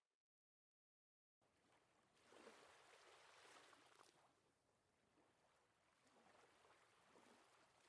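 Dead silence for about a second and a half, then a faint wash of flowing water sounds comes in, swelling and easing.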